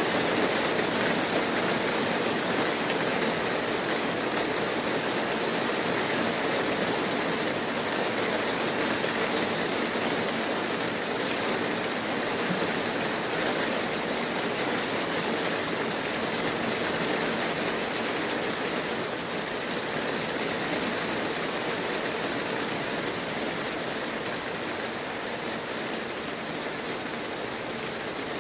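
Heavy rain pouring steadily, an even hiss with no distinct drops or other events, growing slightly fainter toward the end.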